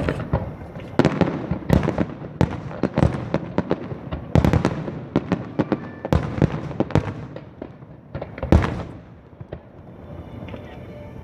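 Aerial fireworks bursting: a rapid, irregular string of bangs and crackles, several loud reports close together. The bangs thin out to a quieter lull near the end.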